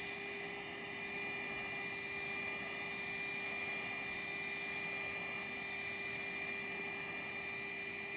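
Vacuum cleaner running steadily, a constant motor whine over an even rushing of air.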